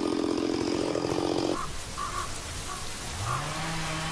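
A chainsaw running at speed cuts off suddenly about a second and a half in. A few short calls follow, then near the end a motor's pitch rises and holds steady.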